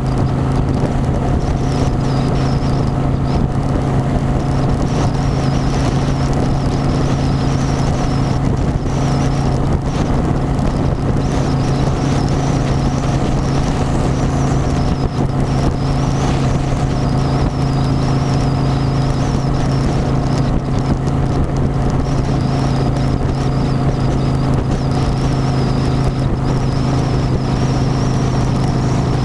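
Engine running steadily at a constant speed: an unbroken low drone with a faint, slightly wavering high whine above it.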